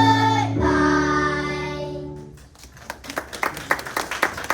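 Children's voices singing the last long held notes of a song, which end about two seconds in, followed by scattered, uneven hand clapping.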